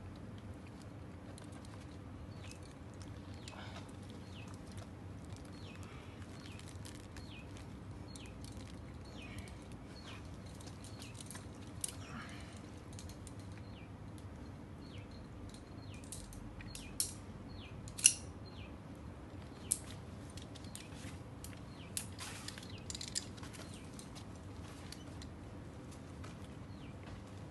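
Small birds chirping: short, high calls that slide downward, repeated throughout over a steady low hum. A few sharp clicks stand out partway through, the loudest just past the middle.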